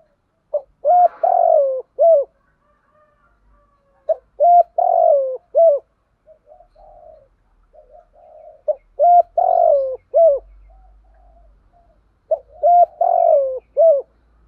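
Spotted dove cooing: four repeated phrases of a few notes each, every phrase holding a longer coo that falls in pitch, with softer, quieter coos in the gaps between them.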